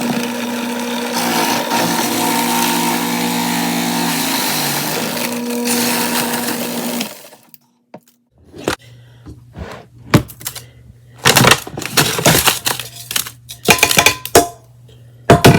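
A small electric motor runs steadily for about seven seconds, grinding ice into shaved ice, then cuts off. After a short pause come irregular sharp crunches and clatters of ice.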